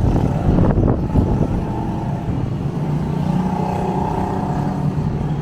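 A motor vehicle's engine running with a steady hum that swells a little midway. Wind buffets the microphone in the first second.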